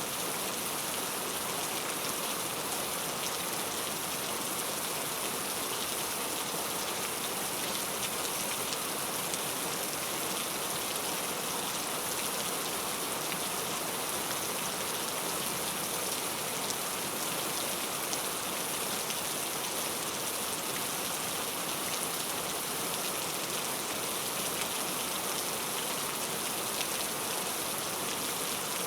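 Heavy, steady rain falling: a dense, even hiss of drops with no letup.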